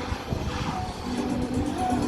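A Ford truck's engine running, with background music over it.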